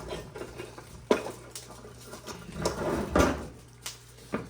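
Kitchen dishes and cookware being handled: a few sharp knocks and clinks, the loudest about three seconds in.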